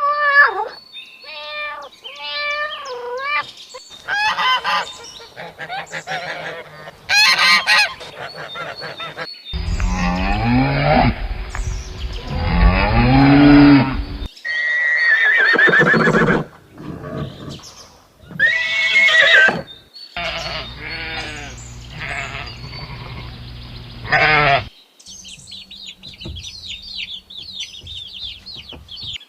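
A run of different farm animals calling, one short clip after another, with abrupt cuts between them. Several of the calls are pitched, with rising and falling cries.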